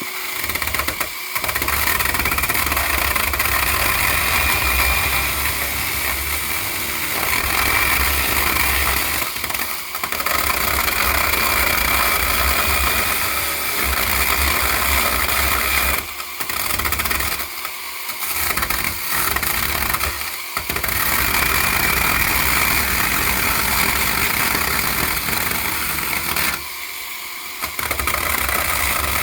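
Battery-powered tool running at full speed for long stretches, with about six brief stops and restarts.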